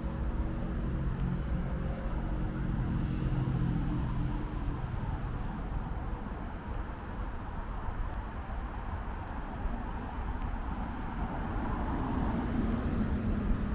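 City street traffic: a vehicle engine hums steadily at first and fades after about five seconds, then another vehicle swells past near the end, over a constant low traffic rumble.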